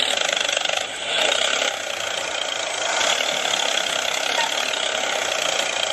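Small electric motor and gearbox of a miniature toy truck running, a steady rattling whir of meshing gears.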